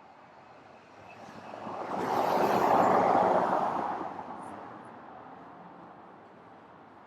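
A vehicle passing by: its noise swells to a peak about three seconds in, then fades away.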